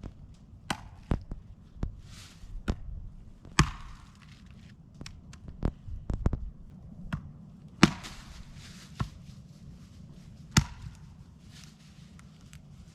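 Wood being chopped: irregular sharp knocks, the two loudest a little past the middle and about two-thirds through, with rustling between strokes.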